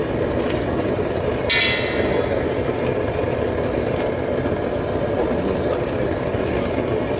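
Propane burner of a homemade melting furnace running steadily. About a second and a half in, one sharp strike rings briefly.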